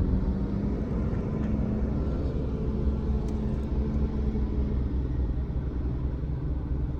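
Car running at a steady pace: a constant low rumble of engine and road noise with a steady engine hum in it.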